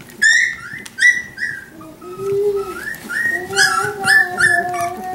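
Young Australian labradoodle puppies whining, a run of short high cries that dip and rise in two bursts, over a lower, longer whine.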